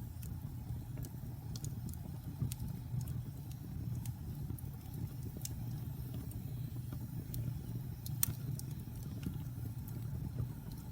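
Wood fire burning in a fireplace: a steady low rumble of flames with scattered sharp crackles and pops, the loudest about eight seconds in.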